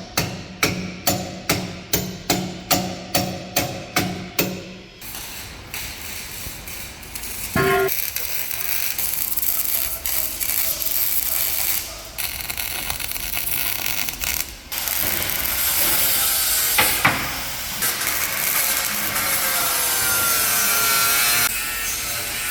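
Repeated hammer blows with a short ring, about two a second, stopping about five seconds in. Then a continuous rasping, scraping sound of tool work.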